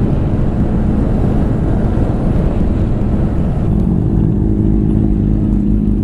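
Honda Grom 125 cc single-cylinder motorcycle engine running while the bike is ridden, under a heavy low rumble. A little over halfway through the engine settles into a steady, held note.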